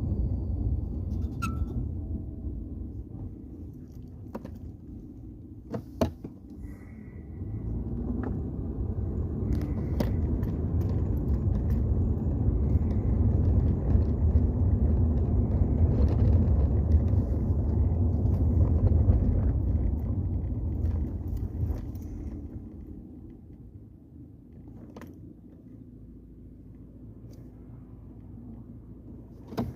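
A 2004 Toyota 4Runner making a low rumbling noise under braking. It swells after about eight seconds, is loudest in the middle and fades away well before the end, with a couple of sharp clicks about six seconds in. The owner suspects it comes from the brake master cylinder assembly.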